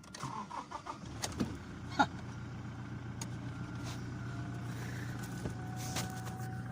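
2018 Toyota Hilux engine cranking briefly and catching about a second in, then idling steadily. It starts only with the clutch-pedal start sensor pressed in by hand: the no-start fault is the pedal's rubber stopper no longer reaching that sensor.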